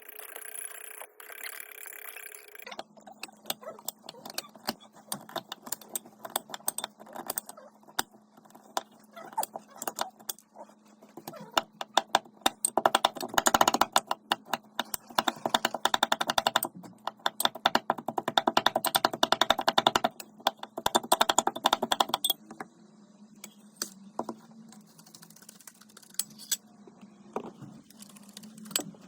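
Rapid, irregular clicking and tapping of a kitchen utensil against a mixing bowl while meringue is mixed, densest in the middle stretch, over a faint steady hum.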